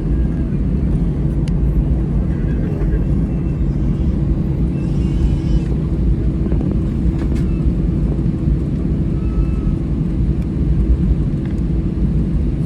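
Steady cabin noise inside an Airbus A320-214: an even, loud low rumble of its CFM56 engines and airflow, with a constant hum through it and a few faint ticks.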